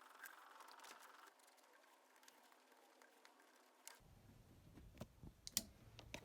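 Near silence: faint room tone, with a few faint, sharp clicks and taps in the second half.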